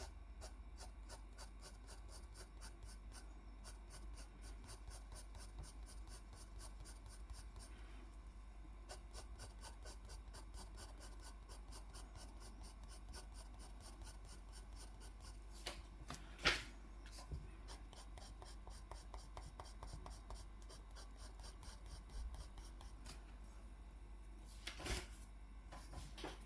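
Rapid repeated strokes of a drawing tool scratching on paper, about four a second, as contour lines are drawn. A single sharper knock about sixteen seconds in, and another louder scrape near the end.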